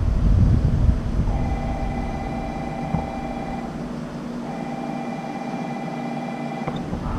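Train horn sounding two long, steady blasts on one pitch, each about two and a half seconds with a short break between, over a steady low drone of the train.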